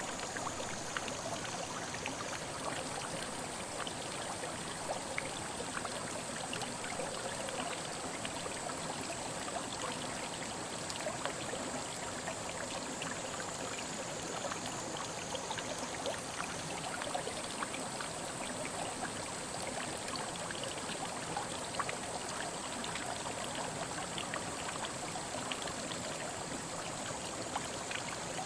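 Mountain headwater stream flowing over rocks: a steady rush of water dotted with many small splashes and drips.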